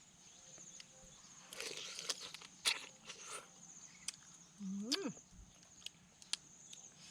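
Close-up eating sounds of fresh blue crab in spicy papaya salad being chewed and sucked: scattered sharp clicks and short moist crunching patches. A steady high insect shrill runs underneath, and about five seconds in there is a brief hummed "mm" that rises and falls.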